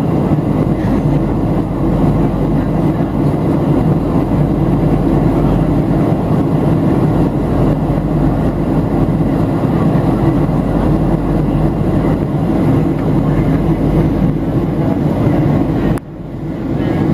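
Steady cabin noise of a Boeing 737-700 in flight, heard from inside the cabin: a deep, even roar of its CFM56-7B turbofans and the air rushing past the fuselage. Near the end the sound drops away abruptly and swells back within about a second.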